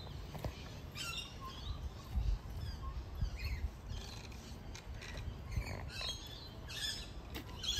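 Birds chirping in short repeated calls, over a low background rumble.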